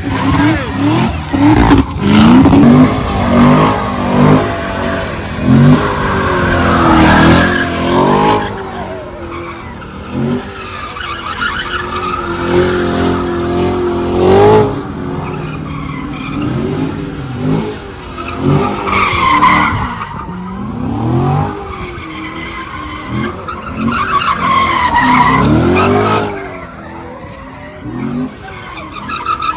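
Car engines revving up and down again and again, with tires squealing.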